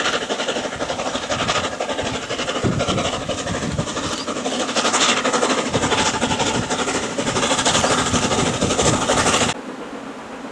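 Steam train running on the line, a loud dense clatter that builds toward the end and then cuts off suddenly, leaving a quieter steady rushing noise.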